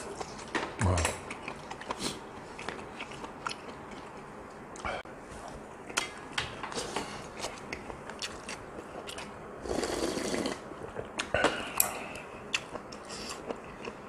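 Close-miked chewing of a mouthful of offal stew, with wet clicks and smacks coming irregularly. A longer hissing noise lasts under a second about ten seconds in.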